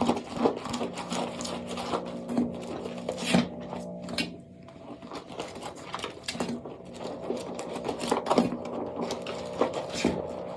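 Dry soap crunching and scraping in quick, irregular crisp clicks, over a steady low hum. The clicking eases off for a moment around four to five seconds in.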